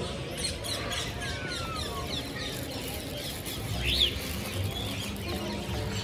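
Many small birds chirping, short quick calls overlapping, with a longer falling whistle about two seconds in and a sharp chirp about four seconds in.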